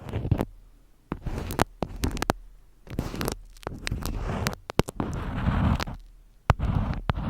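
Close-miked ASMR handling sounds: sharp clicks and crackles mixed with swells of rough scratching or rustling, with short pauses between them.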